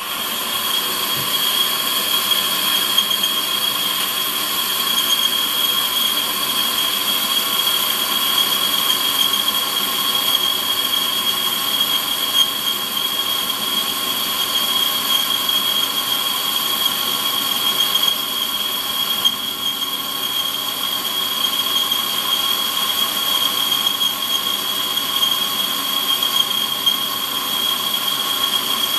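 Warco metal lathe running on power feed through a light finishing boring cut, with a steady high-pitched whine throughout.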